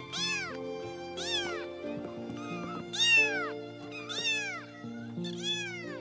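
Domestic cat meowing five times, about a second apart, each call rising then falling in pitch, over background music of sustained notes.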